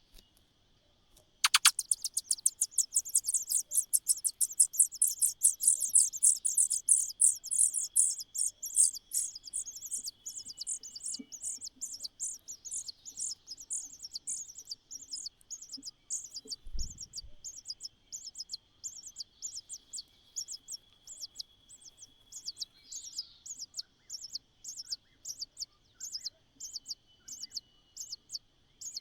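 Nestling begging calls: a rapid, unbroken run of short, thin, high chirps, loudest for the first several seconds and then softer. A steady high whine sits underneath, and there is one soft low bump about halfway.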